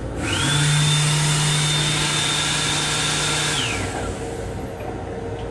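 Electric hand dryer's blower running for about three seconds with a steady high whine over a low hum, then winding down in pitch as it shuts off.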